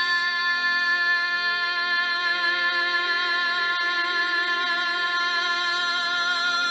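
A worship song playing, with a singer holding one long note with a slight waver over the accompaniment. The note slides down and ends near the end.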